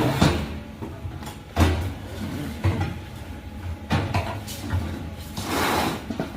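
Metal grill parts being handled and fitted together as a ring is mounted: a series of separate knocks and clanks, then a longer scrape near the end.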